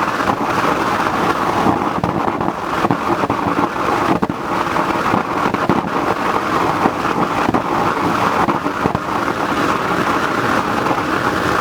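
Waste-oil burner made from an old car muffler, running with its air blower on: a loud, steady rush of flame with frequent crackling pops.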